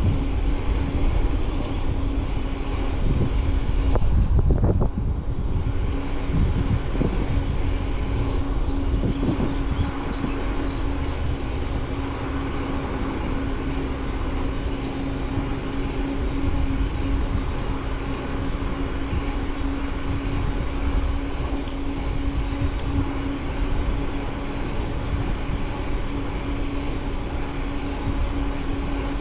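Bicycle riding along at speed: rumble from the tyres and wind on the microphone, under a steady, even-pitched hum, with a couple of bumps about four to five seconds in.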